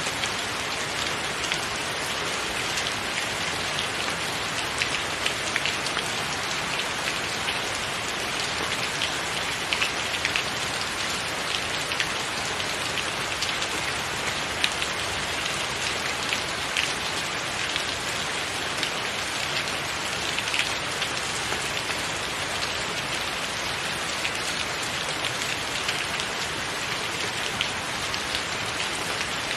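Steady rain falling on a roof, a constant hiss with scattered sharper drops pattering through it.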